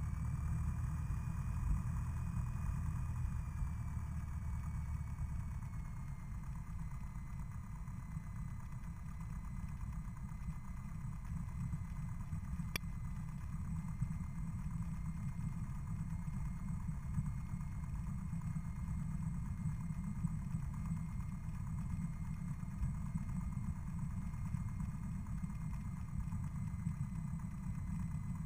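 Single-engine Cessna's piston engine running at low taxi power, a steady low drone, with one sharp click about 13 seconds in.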